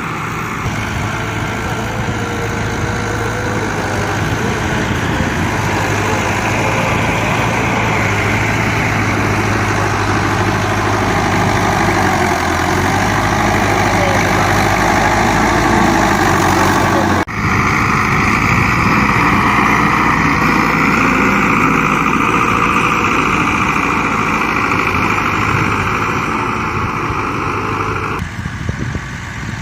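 Fiat 640 tractor's four-cylinder diesel engine running steadily. The sound breaks off sharply about two-thirds of the way through and then carries on much the same.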